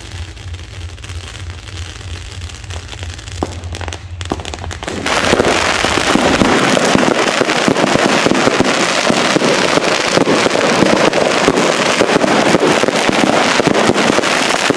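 Fireworks going off: a few scattered pops at first, then from about five seconds in a dense, continuous rapid crackling of many small bangs, like a firecracker barrage.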